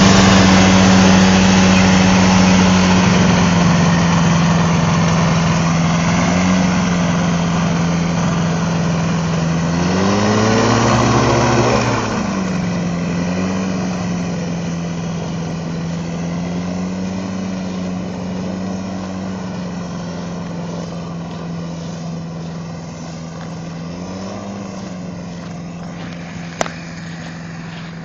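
Microlight aircraft's Rotax engine and propeller running steadily at high power, gradually fading as it moves away. The pitch dips and rises briefly near the middle. A single sharp click sounds near the end.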